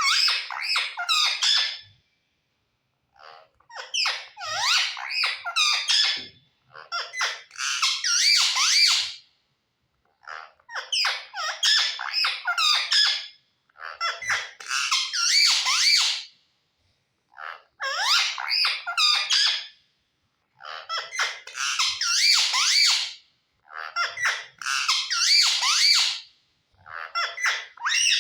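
A pet parrot chattering and squawking in repeated bouts of two to three seconds, with short pauses between.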